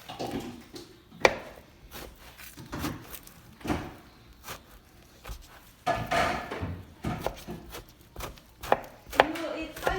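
Knife chopping citron into small pieces, a series of irregular knocks of the blade.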